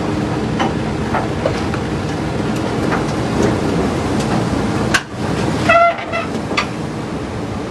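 Tracked excavator travelling, its engine running steadily while the steel tracks give scattered clanks and clicks. Near the end comes a brief, high pitched squeal or honk.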